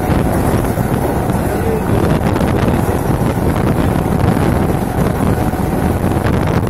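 Mumbai suburban local train running at speed: a steady, loud running rumble mixed with wind buffeting the microphone at the open window.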